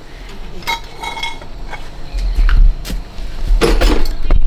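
Metal objects clinking and knocking against each other in a few separate strikes, some with a short ring. A low rumble comes in about two seconds in.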